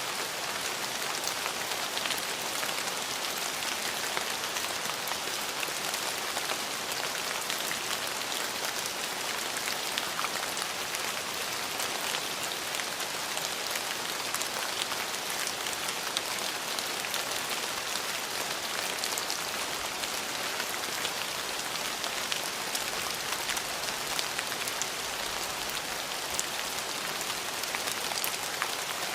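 Steady rain falling on surfaces, a dense even hiss full of fine drop ticks.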